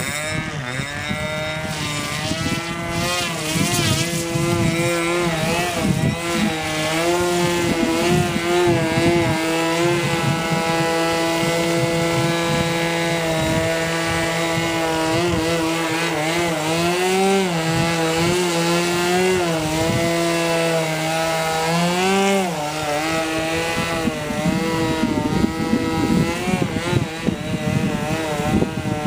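Model aeroplane's .46 two-stroke glow engine with a 12x4 propeller running steadily in flight, its pitch wavering and swinging up and down several times as the plane manoeuvres. Wind rumbles on the microphone underneath.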